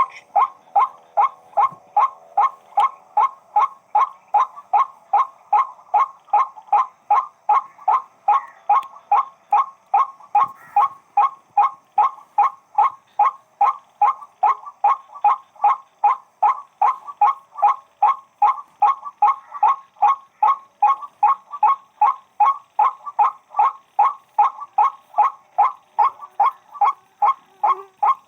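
White-breasted waterhen (burung wak-wak) calling: one short 'wak' note repeated evenly, about twice a second, without a break.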